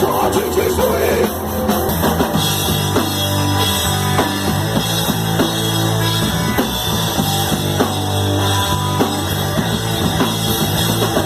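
Punk rock band playing loud, with distorted guitar, bass and a steady drum beat; a sung word is heard just after the start.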